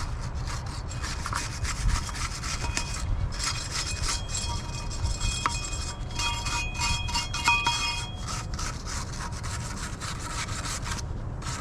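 Rust being scrubbed off a steel wheel by hand in rapid back-and-forth scraping strokes, preparing the metal so paint will stick. A thin high ringing tone comes and goes in the middle stretch.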